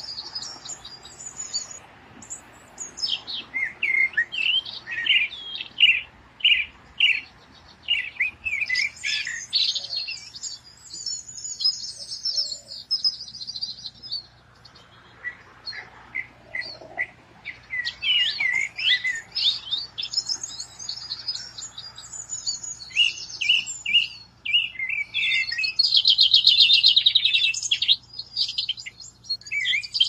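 Songbirds singing, with many short, high chirps and trills one after another, overlapping at times. A fast, dense trill near the end is the loudest part.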